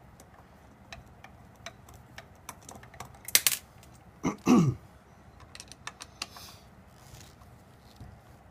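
Small metallic clicks and taps of tools working loose the screws that hold a drive motor on, with two louder clattering bursts about three and a half and four and a half seconds in, the second sliding down in pitch.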